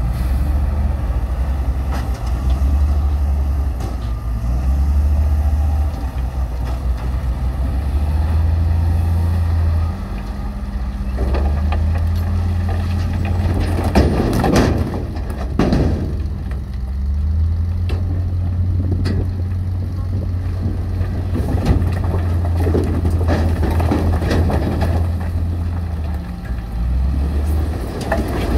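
Diesel engine of heavy earthmoving machinery running with a deep, steady rumble whose level shifts now and then. A couple of short, louder bursts of noise come about halfway through.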